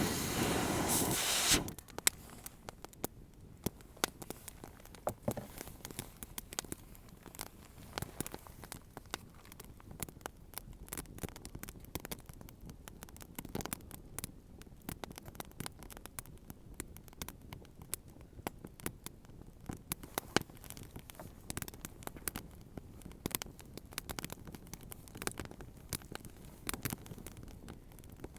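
Campfire wood crackling, with irregular sharp pops and snaps at uneven intervals. A brief burst of rustling noise opens it and cuts off about two seconds in.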